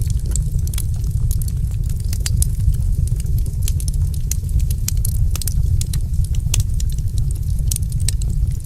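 A fire crackling in a fireplace, with frequent sharp, irregular pops and snaps over a steady low rumble.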